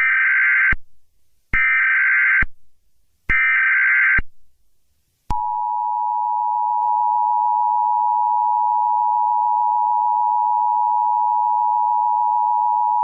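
Emergency Alert System header: three short bursts of screeching digital data tones, then the steady two-tone attention signal held for about eight seconds and cut off sharply. It marks the start of a severe thunderstorm warning broadcast.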